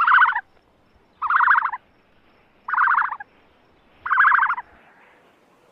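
An animal calling four times, each call a short, rapidly pulsing bleat about half a second long, roughly a second and a half apart.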